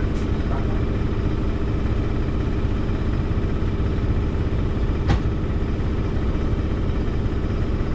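A standing passenger train idling: a steady low mechanical drone, with a single sharp knock about five seconds in.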